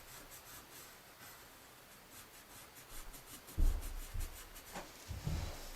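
Pencil lead scratching on paper in short, quick strokes as a drawing is shaded, with a few soft low thumps in the second half.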